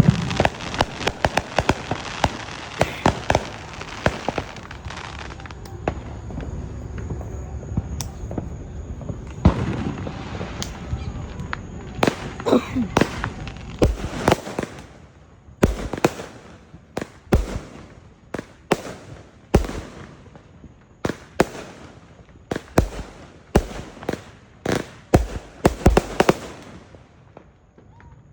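Backyard consumer fireworks going off: a dense, rapid crackle of pops for the first several seconds, then a long string of separate sharp bangs at uneven intervals that stops shortly before the end.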